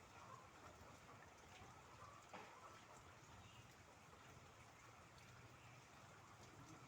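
Faint, steady rain hiss with scattered drips, one sharper drop about two seconds in.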